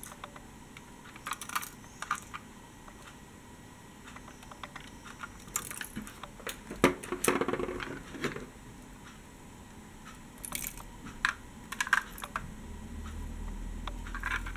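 Scattered small clicks and light knocks of toy die-cast trolleybus models being handled and set down, with a low rumble near the end.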